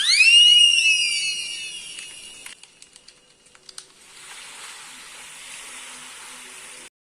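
Electronic sound effect: a high tone that swoops quickly upward and fades away over about two seconds. A few sharp clicks follow, then a steady hiss that cuts off suddenly.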